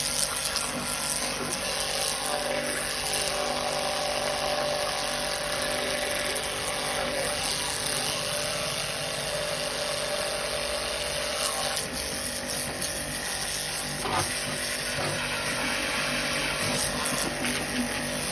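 Pressure washer running steadily while spraying a truck turbocharger clean: a constant hiss with a steady motor whine underneath.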